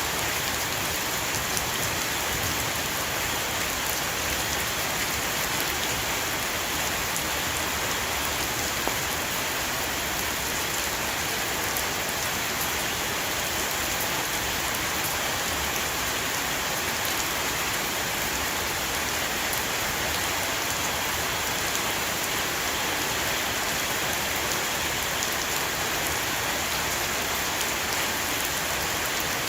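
A heavy rain shower drumming steadily on a roof, a dense patter of drops.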